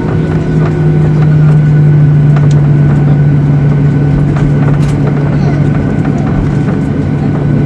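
Airliner cabin noise: the jet engines run with a loud, steady low drone over a constant rushing bed, with a few light rattles.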